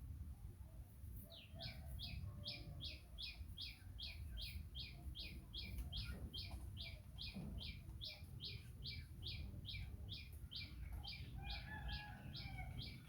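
A bird calling a long, even series of short, high chirps, each sliding downward, about two and a half a second, beginning about a second in.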